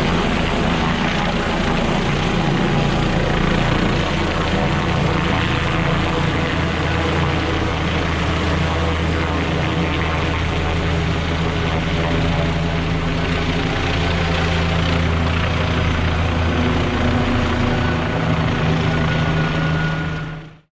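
AgustaWestland AW169 air ambulance helicopter running steadily at close range: the twin turboshaft engines' whine and the rotors' low hum over a broad rush of noise. It cuts off abruptly near the end.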